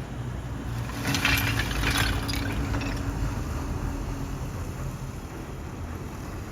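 Heavy truck engine running steadily, with a short burst of rattling and clinking about a second in.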